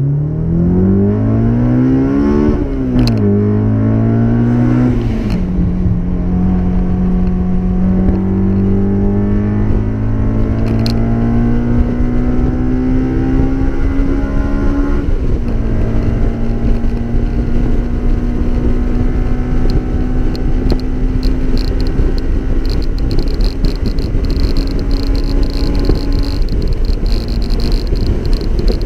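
2001 Honda S2000's 2.0-litre four-cylinder, with aftermarket intake and full exhaust, pulling hard through the gears from inside the open-top cockpit. Its pitch climbs, then drops at upshifts about three, five and fifteen seconds in, and rises only slowly in the long higher gears. The engine note fades near the end, leaving wind and road noise.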